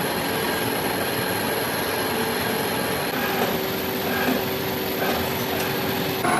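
Steady running noise of a metalworking machine tool, with a constant high whine over it; the tone shifts abruptly about three seconds in and again near the end.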